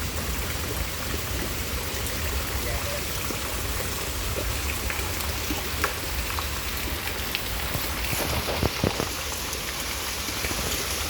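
Steady rain falling during a thunderstorm, with scattered drips and a few sharper drop ticks about eight to nine seconds in.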